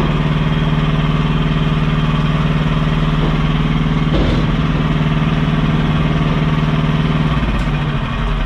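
Mini skid steer's engine running at a steady speed, its note changing about seven seconds in.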